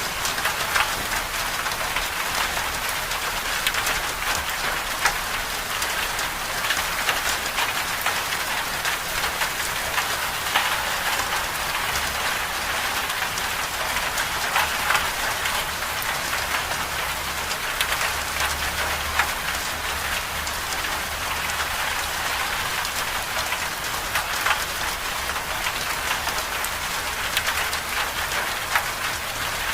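Moderate rain falling steadily, a dense even hiss with many separate drop hits ticking through it.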